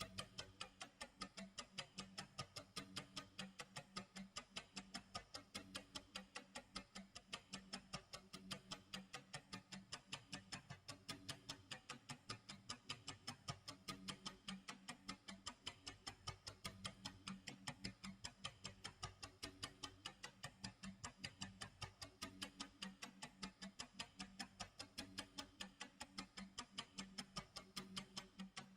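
Faint clock tick-tock sound effect: a fast, even run of ticks that keeps on without a break.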